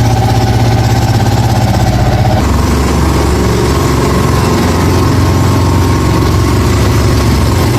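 Engine of a bajaj auto-rickshaw running steadily with a fast, even putter. Its note shifts about two and a half seconds in.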